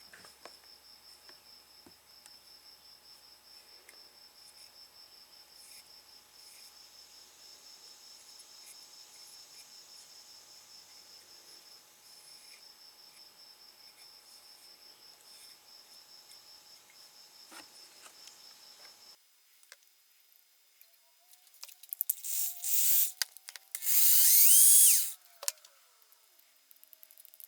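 Cricket chirping steadily as a fast, high-pitched trill. After a break, a few short hissing bursts come, then a louder hiss about a second long near the end: an aerosol lube can spraying into a tachometer's joint.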